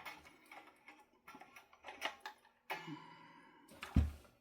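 Scattered small clicks and taps of guitar tremolo hardware being handled and fitted into the body cavity, with a dull thump near the end.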